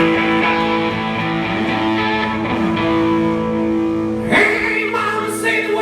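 Electric guitar ringing out sustained, overdriven notes with a few slow bends, played live through an amplifier.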